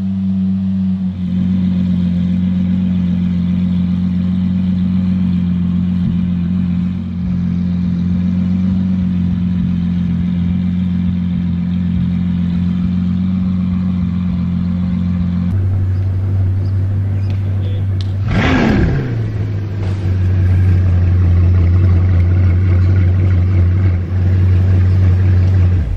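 Lamborghini Aventador SVJ's naturally aspirated V12 idling steadily. About 15 seconds in the sound cuts to another supercar engine idling on a deeper, slightly louder steady note. A brief sound falls steeply in pitch a few seconds after the cut.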